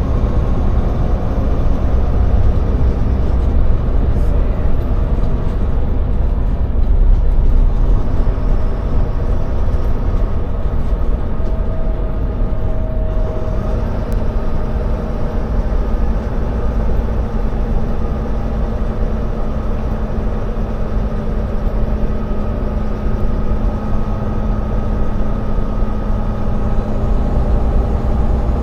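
Semi-truck tractor's diesel engine and road noise heard from inside the cab while driving: a steady low rumble with an even engine note that changes pitch about halfway through.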